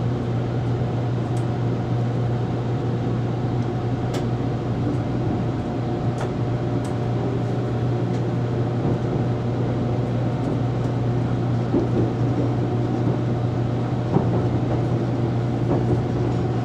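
Inside a train car as it moves off and rolls along: a steady running hum from the train with the rumble of wheels on the track, and a few sharp clicks in the first several seconds.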